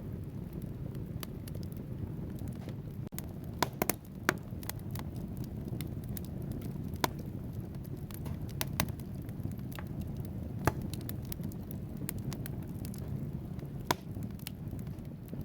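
Wood fire burning in a fireplace: a steady low rush of flames with irregular sharp crackles and pops from the logs, a few louder pops standing out.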